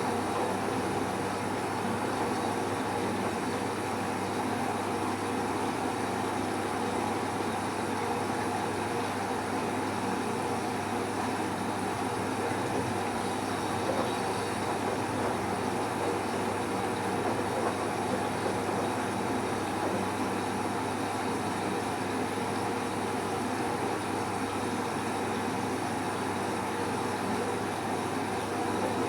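Bauknecht Super Eco 7615 washing machine running steadily, its inverter drum motor giving a constant whine of several fixed tones over a broad rushing hum, with no rise or fall in speed.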